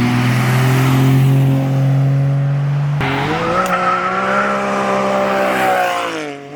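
A car's engine pulling away loudly. Its steady note jumps sharply higher about three seconds in, holds there, then drops away near the end.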